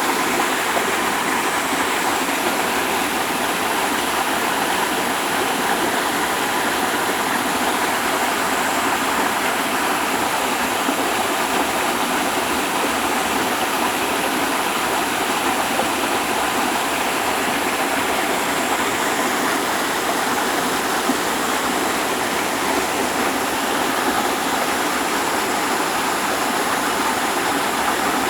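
Waterfall: a steady, unbroken rush of falling water, all hiss with little deep rumble.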